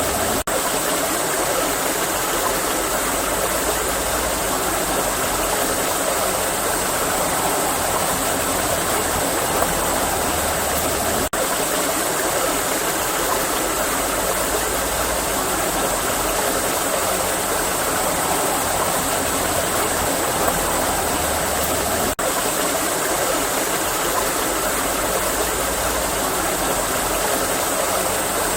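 Steady rushing and babbling of a flowing forest stream, with three brief dips in level about eleven seconds apart.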